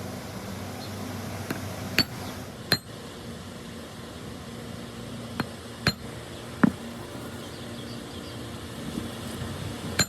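Sharp metallic clinks and taps of hand tools against metal parts, about seven scattered strikes, over a steady low mechanical hum.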